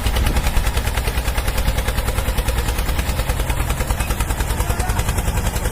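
A vehicle's motor running with a steady, rapid chugging, about nine pulses a second.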